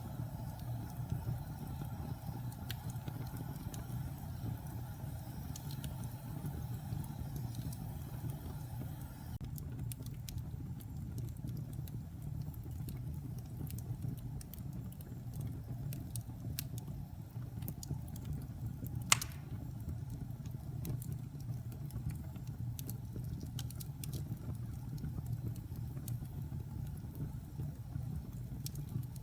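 Wood fire burning in a fireplace: a steady low rumble of flames with scattered small crackles, and one sharp, much louder pop about two-thirds of the way through.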